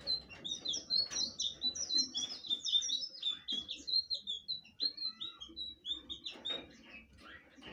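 A blue flycatcher (sikatan biru) singing a fast run of short, high chirping notes that thins out about five seconds in.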